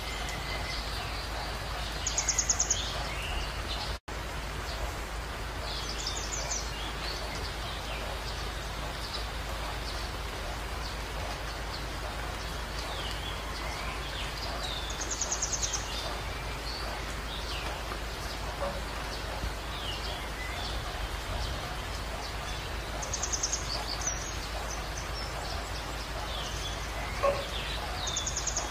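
Steady background hiss with small birds chirping now and then, including a few short rapid trills and scattered single chirps. The sound cuts out for an instant about four seconds in.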